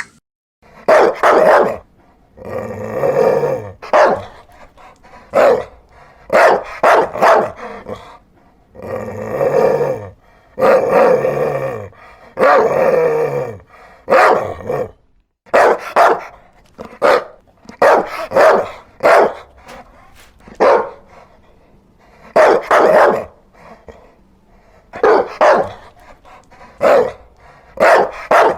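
Dogs barking repeatedly, in short calls and some longer drawn-out ones.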